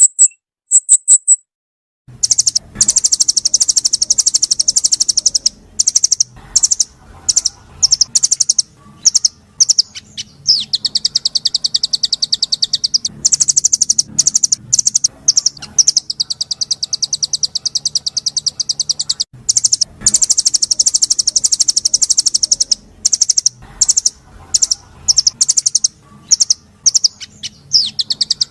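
Small songbird singing long, very fast, high-pitched trills and rattling runs of sharp repeated notes, broken by short pauses. It starts about two seconds in, after a brief quiet gap.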